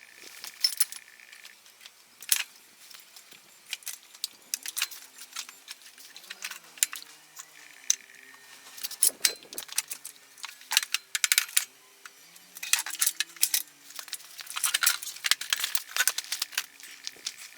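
Metal tools and small metal parts clinking and clattering as they are handled, with many sharp taps at irregular intervals, busiest in the second half.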